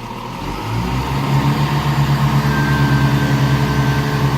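Class 170 Turbostar diesel multiple unit's underfloor diesel engines powering up as the train pulls away. The engine gets louder about a second in, then holds a steady, pulsing note.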